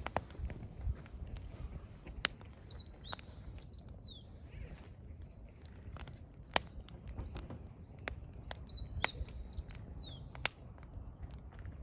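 Burning firewood crackling, with scattered sharp pops; the loudest comes just past halfway. A songbird sings a short phrase of quick, falling, high chirps twice, about three seconds in and again near nine seconds, over a low steady rumble.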